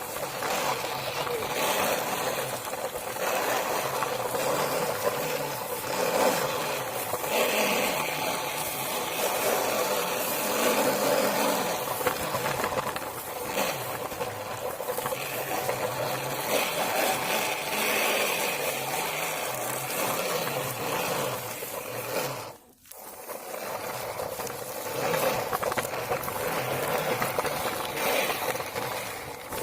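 Small toy vehicle's motor and plastic parts whirring and rattling steadily, cutting out briefly about three quarters of the way through.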